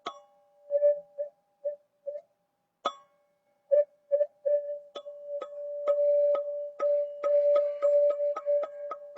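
A ZenTube sound-healing instrument struck repeatedly, ringing one steady pitch. A few scattered taps with a pause in the first half give way to an even run of about two strikes a second that quickens near the end.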